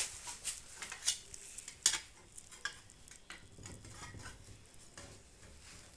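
Small metal parts and tools clicking and clinking as they are handled during microwave oven repair, with irregular light knocks, the sharpest about two seconds in.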